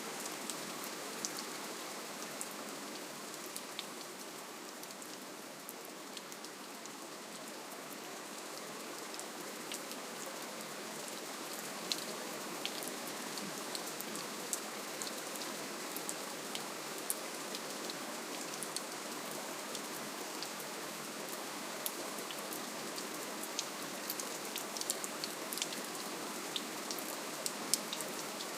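Steady, gentle rainfall with individual drops ticking sharply here and there, the ticks growing more frequent in the second half.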